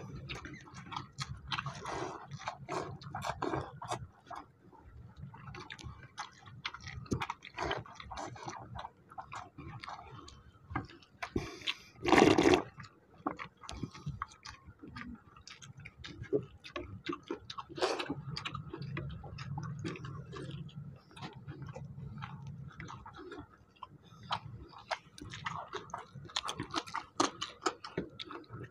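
Close-up eating sounds of two people eating watery rice by hand: a steady run of wet mouth clicks and smacks from chewing, with fingers squelching the soaked rice. One louder noise lasting about half a second comes about twelve seconds in.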